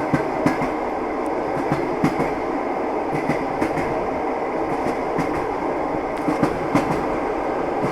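Train wheels clattering over rail joints as a train runs along at a steady pace: a continuous running noise with short knocks that come in small groups every second or so.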